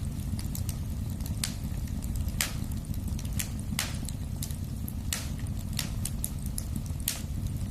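Wood fire burning in a fireplace: a steady low rumble of flames with sharp pops and crackles of burning logs at irregular intervals.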